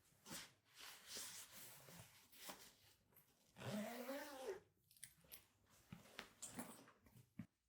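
Soft rustling and crinkling of things being handled and packed. About four seconds in, a cat gives one meow that rises and falls in pitch.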